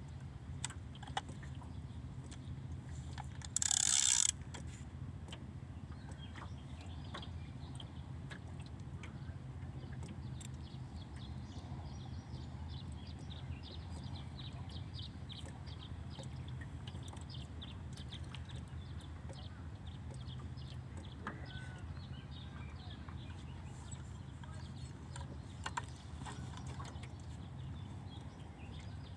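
Light mechanical clicking, many small ticks, over a steady low hum, with one short loud rushing noise about four seconds in.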